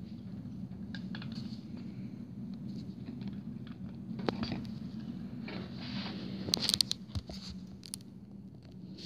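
Handling noise: light rustling and small clicks and taps of packaging or a plastic model being handled, with a cluster of sharper clicks about six and a half to seven seconds in, over a steady low hum.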